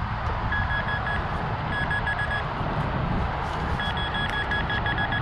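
Minelab Vanquish 440 metal detector beeping in three bursts of rapid, same-pitch chirps, signalling a buried metal target still in the dig hole. Steady wind rumble underneath.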